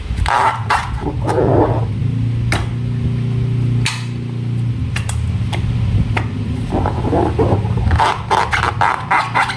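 Hands squishing slime and handling a rubber balloon: sticky squelching clicks, with a low buzzing rubbery tone through the middle. Near the end come fast rapid squelches.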